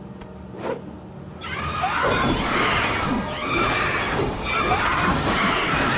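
Cartoon sonic-scream attack, a harsh shrieking wail with a shattering edge that starts about a second and a half in and surges in repeated waves.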